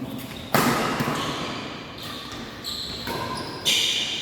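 Two sharp badminton racket hits on the shuttlecock, about three seconds apart, each echoing briefly in the sports hall.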